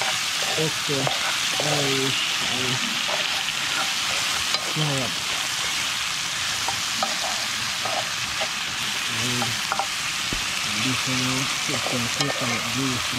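Chopped vegetables sizzling steadily in a cast-iron skillet over a wood fire, with a metal spoon stirring them and clicking against the pan now and then.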